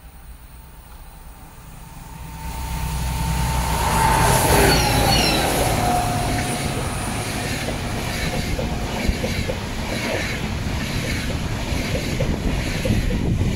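A DB Class 218 diesel locomotive hauling Intercity coaches passes close by. Its engine grows louder over the first few seconds, and a whine drops in pitch as the locomotive goes by about four to five seconds in, with a few brief wheel squeals. Then the coaches run past with a rhythmic clicking of wheels on the track.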